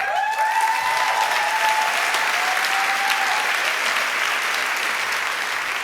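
Audience applauding, with one long high cheer that rises in at the start and is held for about three seconds over the clapping.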